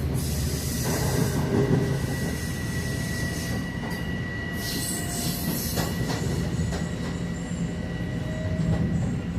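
LIRR diesel-hauled bilevel passenger train pulling out. There is a steady low rumble, a thin high whine from the wheels held through most of it, and a few clacks over the rail joints around the middle.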